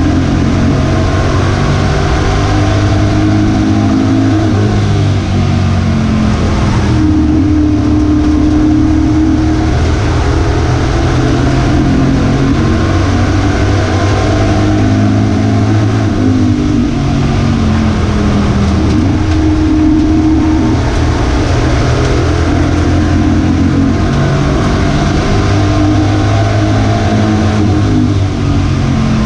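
Race trucks' engines running at racing speed, several engines at once, their pitch rising and falling as they accelerate and lift through the laps.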